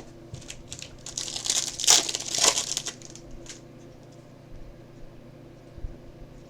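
Trading card pack wrapper crinkling as it is torn open, loudest about a second in and lasting about two seconds, followed by a few light clicks of handling.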